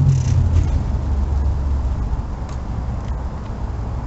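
A motor vehicle's low rumble, fading away over the first two seconds, with a few faint clicks after it.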